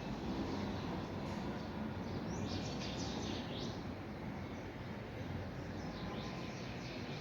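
Small birds chirping in short quick bursts of high notes, about two seconds in and again around six seconds, over a steady low background rumble.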